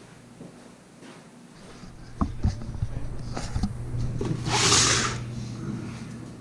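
Workshop handling noise: a few sharp knocks and clatter about two seconds in, scattered smaller clicks, and a brief rushing hiss near five seconds, over a steady low hum.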